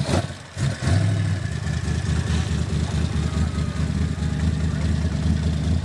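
A car engine idling steadily, coming in about a second in with a brief louder burst, then holding an even low hum.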